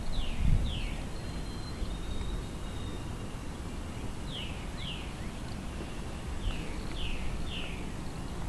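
Outdoor ambience: a bird gives short, falling chirps in twos and threes over a steady low rumble. There is a brief low bump about half a second in.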